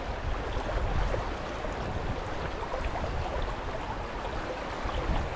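Fast river current rushing steadily.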